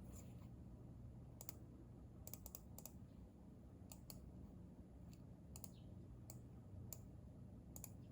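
Hansung electrostatic capacitive keyboard keys pressed sparsely and quietly: about a dozen scattered keystrokes, some in quick pairs or threes, over a steady low room hum.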